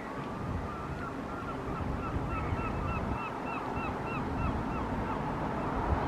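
A bird giving a rapid series of short honking call notes, about three a second, over a low rumble of wind on the microphone.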